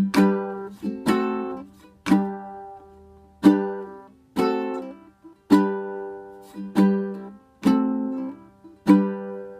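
Ukulele chords strummed one stroke at a time, about one a second, nine in all, each left to ring and fade before the next, with the chord changing along the way.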